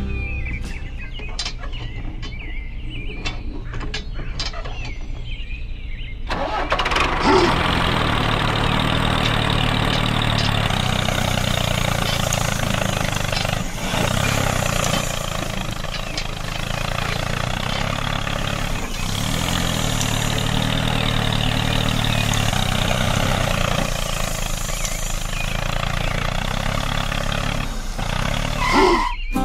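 Tractor engine running: a lower hum with a few clicks at first, then about six seconds in it grows louder and runs steadily with a rough, even note, stopping just before the end.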